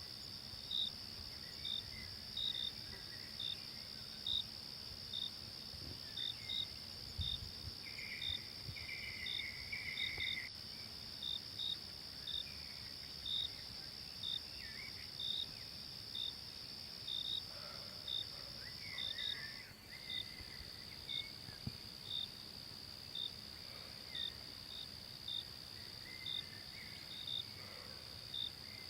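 Forest ambience of insects: a continuous high trill, with short chirps repeating a little more than once a second. Faint scattered bird calls can be heard in the background.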